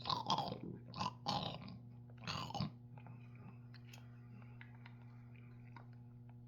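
A person eating gelatin: several loud wet mouth and chewing sounds in the first few seconds, then only faint clicks. A steady low hum runs underneath.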